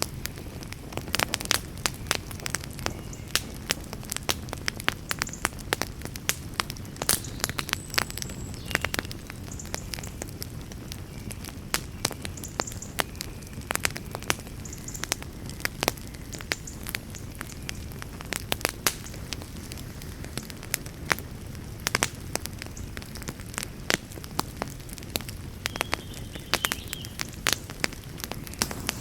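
Campfire crackling: frequent, irregular sharp pops and snaps over a steady low rumble of burning wood.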